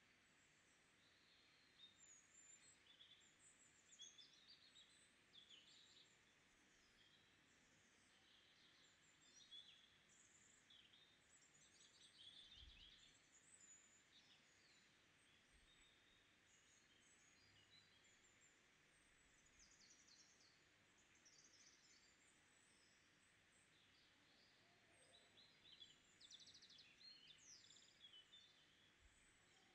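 Very faint, scattered high chirps and short trills, like small birds calling, over a low steady hiss.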